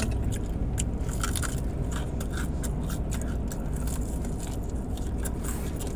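Close-up crunching and chewing of crispy fried chicken wings, a rapid irregular crackle of bites, over a steady low rumble.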